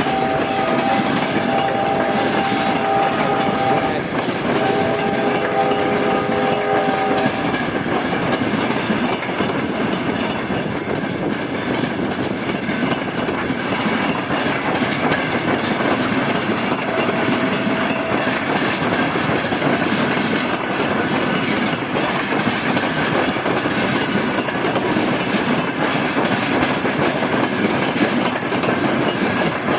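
Passenger train carriages rolling along the rails with steady wheel clatter. A train horn sounds in two long blasts over the first seven seconds or so, and once more briefly about seventeen seconds in.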